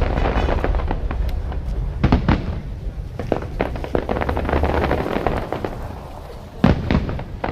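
Aerial fireworks bursting: sharp booms at the start, about two seconds in and near the end, with crackling between them. A low rumble dies away about five seconds in.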